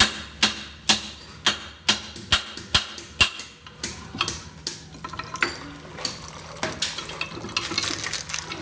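Repeated sharp knocks on metal, about two a second for the first four seconds, then lighter and less regular.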